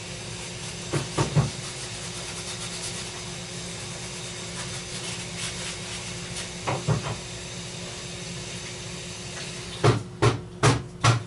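Running water hissing steadily from a nearby sink as vacuum parts are rinsed, with a low hum under it. A few knocks come about a second in and again midway, then four sharp knocks, evenly spaced, near the end.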